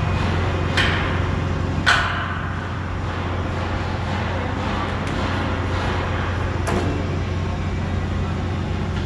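A steady low mechanical hum, with three sharp knocks: one at under a second, a louder one at about two seconds, and a last one near the end.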